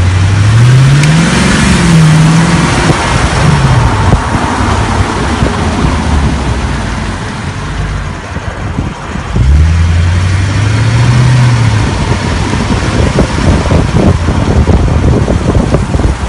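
A car engine accelerating, its pitch climbing and falling away twice, with a second run starting about nine seconds in, over heavy road and wind noise.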